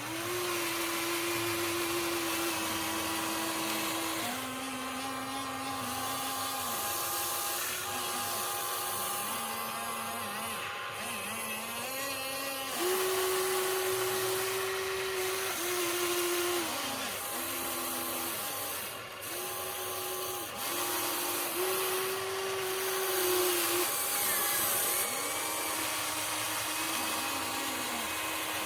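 Electric gear motors of a Huina 1593 RC excavator whining as the machine is worked. The whine starts and stops every second or few and jumps between pitches as different motors take turns.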